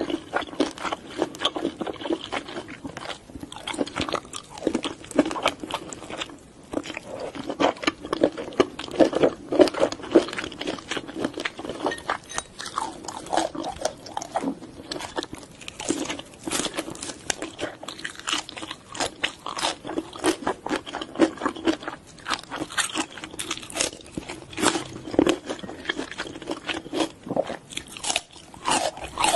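Close-miked ASMR eating of seafood (octopus tentacle and giant prawn): many quick crunches, bites and wet chewing clicks.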